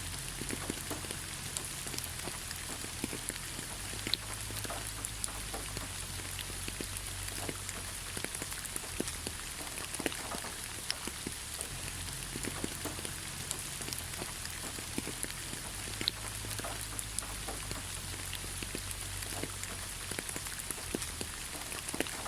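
Steady rain falling, an even hiss dotted with many separate drops striking a hard surface.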